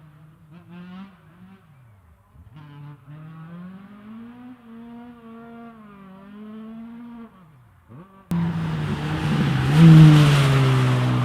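Rally car engines revving up and down as they lap the circuit. A little past eight seconds a much louder rally car runs hard close by, its engine note rising and falling.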